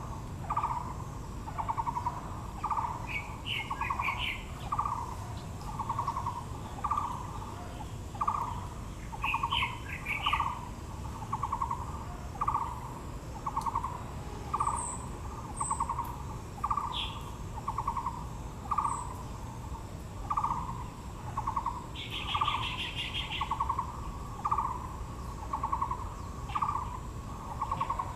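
Wild birds calling: one bird repeats a short, rapidly pulsed call about every second and a half throughout. Other birds add occasional brief higher chirps and, near the end, a short buzzy trill.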